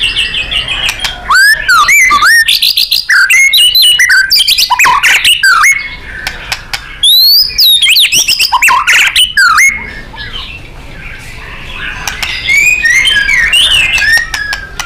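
White-rumped shama (murai batu) singing loudly in a fast run of rich whistles, sweeping glides and sharp clicking notes. Around ten seconds in the song drops to a quieter, softer passage for a couple of seconds, then picks up again.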